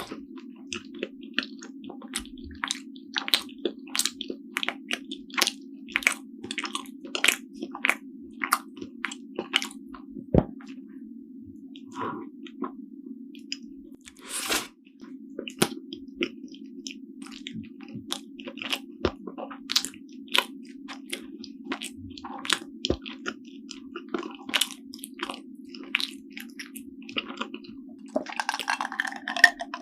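Close-miked chewing of soft Korean steamed buns (hoppang): a steady run of wet mouth clicks and smacks as the bread is bitten and chewed, over a constant low hum.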